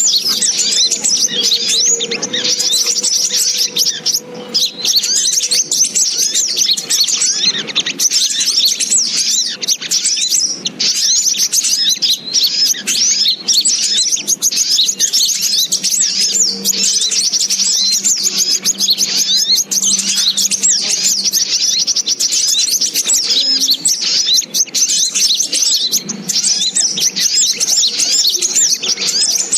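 Lure recording of sogok ontong bird calls: a dense, unbroken stream of rapid high-pitched chirps and twitters, loud and steady throughout.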